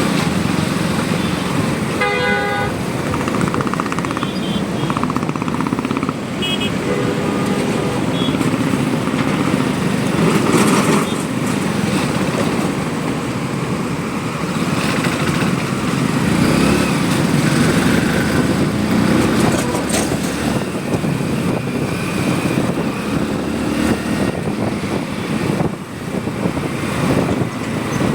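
Motorcycle riding along a road, its engine and road noise running steadily throughout. A vehicle horn sounds briefly about two seconds in, with a few shorter toots a few seconds later.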